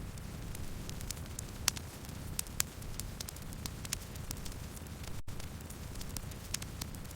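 Campfire burning: a steady low rumble of flames with irregular sharp crackles and pops from the burning wood. There is a momentary dropout a little past five seconds in.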